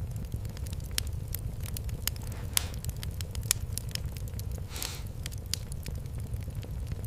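Fireplace fire crackling, with frequent sharp pops over a steady low rumble and a brief hiss about two-thirds of the way through.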